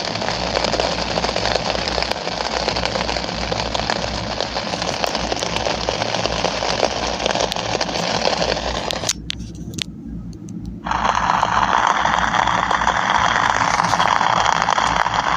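Steady rain hissing. The hiss cuts out for about two seconds near the middle, then comes back fuller and lower-toned, with a low steady hum underneath.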